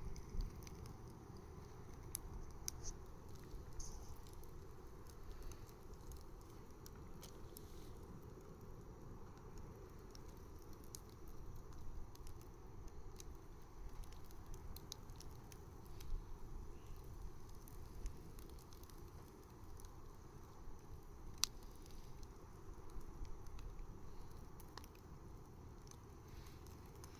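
Wood bonfire crackling: scattered sharp pops and snaps over a low, steady rumble, with one louder pop about three-quarters of the way through.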